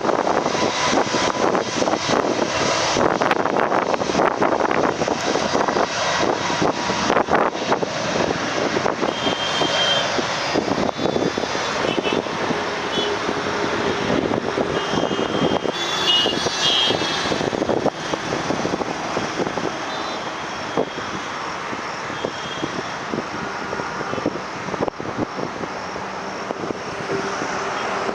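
Jet airliner engine noise, a loud, steady broad rush that eases slightly about two-thirds of the way through.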